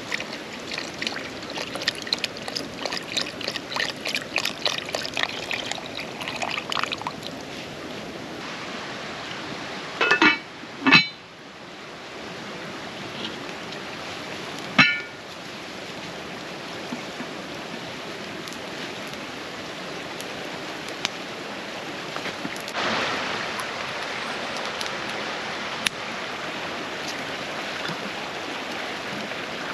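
Steady rush of a running creek, with a run of rapid ticking in the first several seconds and a few short, sharp ringing knocks around ten and fifteen seconds in.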